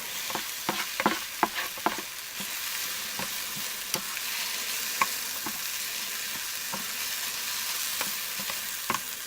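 Omelette eggs frying in an 8-inch electric skillet: a steady sizzle with scattered crackles and pops, thicker in the first two seconds.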